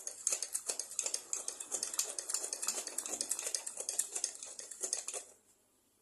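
Rapid, irregular metallic clinking and rattling, like small metal parts being handled or knocked together, stopping suddenly a little over five seconds in.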